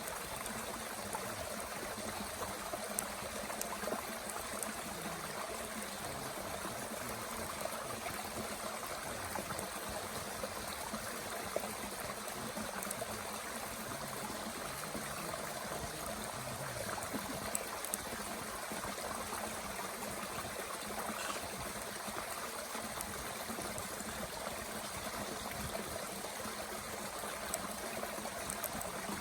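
Mountain stream running steadily, with a few faint, sharp crackles from a small wood fire in a Bushbox stove.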